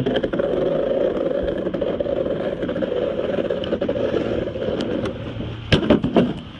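Steady, loud vehicle or engine noise, then a few sharp knocks close together near the end.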